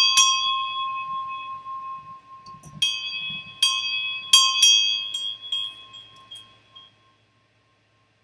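A bell rung several times in quick strikes, each one ringing on with a clear tone, then fading out about seven seconds in. It is rung to celebrate a big card pulled.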